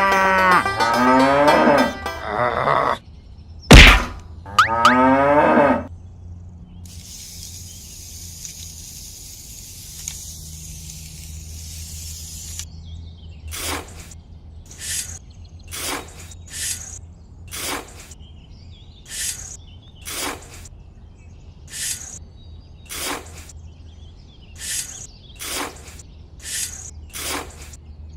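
A cow mooing twice in the first six seconds, with a sharp knock between the calls. Then a high hiss lasting about five seconds, and then a long run of short, even rasping strokes about once a second.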